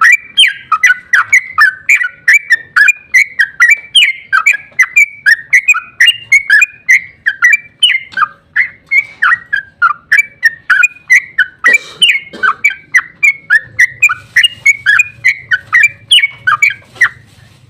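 Yellow-vented bulbul (trucukan) singing a long, unbroken run of rapid, loud bubbly notes, about three a second, that stops shortly before the end.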